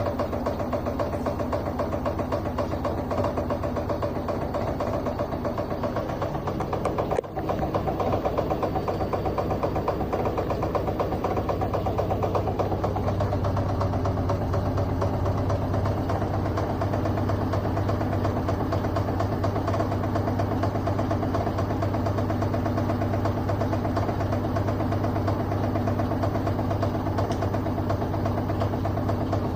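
LG front-loading washing machine running its spin cycle: a steady drum and motor hum with rapid vibration. The sound dips for an instant about seven seconds in, and the low hum grows stronger from about thirteen seconds in.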